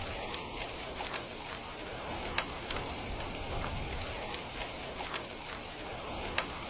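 Steady rain falling, with scattered sharp ticks through it, two of them louder, about two and a half seconds in and near the end.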